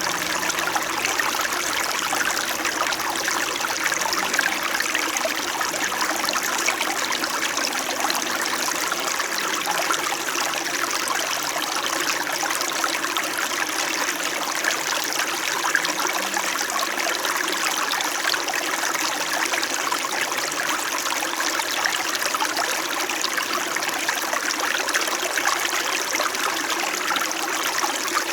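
A small stream flowing and trickling steadily over rocks, a continuous babble of running water with no breaks.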